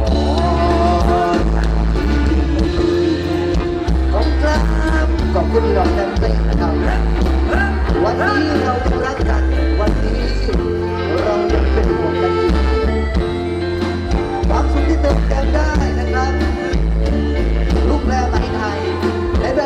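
Live band music with a heavy, steady bass line and a singing voice over it, in the Isan luk thung style.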